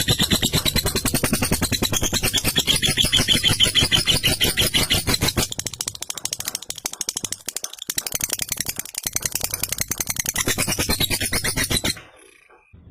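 Lovebird giving its long 'ngekek' chatter: a fast, unbroken run of harsh rattling notes that carries on for about twelve seconds, eases a little in the middle, and breaks off near the end.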